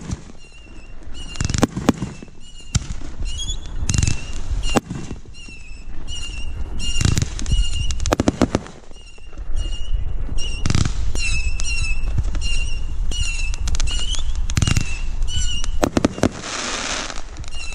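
Consumer fireworks going off: a string of sharp bangs and crackles, with a hissing burst near the end. A short high chirp repeats steadily throughout.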